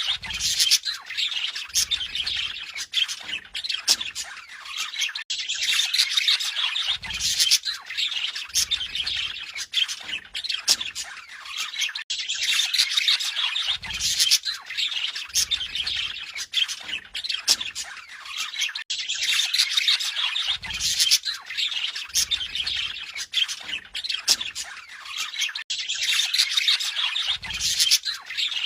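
Budgerigars singing: a continuous warbling chatter of chirps and sharp squawks.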